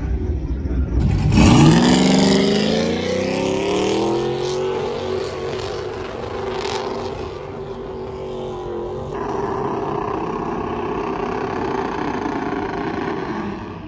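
Pickup truck engine revving hard: it rises sharply about a second in and holds at high revs with a rough noise over it, then drops back a little around nine seconds and keeps running.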